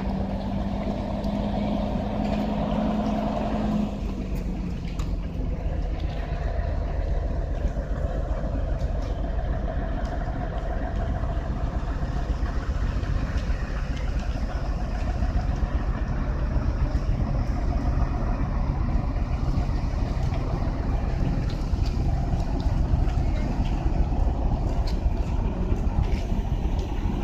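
Heavy road vehicle running with a steady low rumble. An engine tone holds, then drops and fades about four seconds in.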